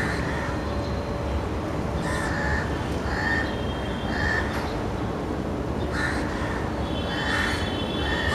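A bird calling: about six short calls, irregularly spaced, over a steady low background rumble.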